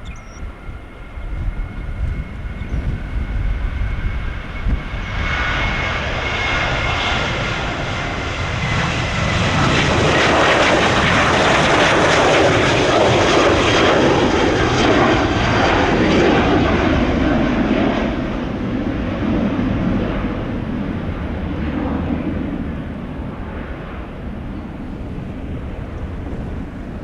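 Jet airliner passing: its engine whine drops slightly in pitch as the roar swells to a peak about halfway through, then fades away. Low wind rumble on the microphone runs underneath.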